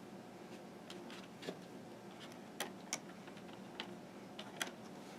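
Faint, irregular clicks and taps of rubber bands being stretched and snapped onto the plastic pegs of a Fun Loom, about seven in all.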